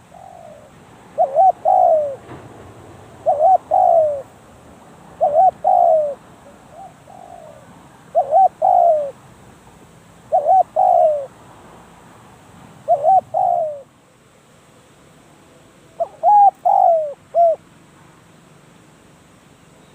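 Spotted dove cooing: a short phrase of two or three coos repeated about every two seconds, seven times, with a longer pause before the last phrase.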